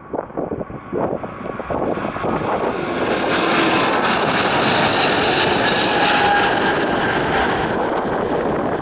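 Jet airliner passing close by, its engine noise swelling to a peak with a high whine and then starting to fade. Wind gusts on the microphone at the start.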